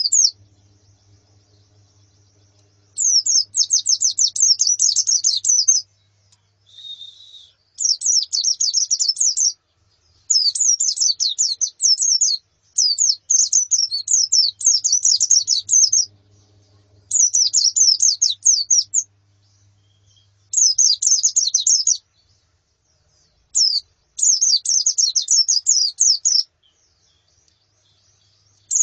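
Pleci (white-eyes) chirping in repeated bursts of rapid, high twittering, each burst a couple of seconds long with short pauses between, about eight in all. A short, lower call comes in briefly about seven seconds in.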